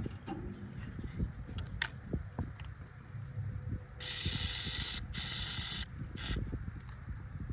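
Compressed-air blow gun hissing in three blasts, starting about four seconds in, blowing dust and grime out of a hay baler's knotters; scattered knocks and clatter come before it.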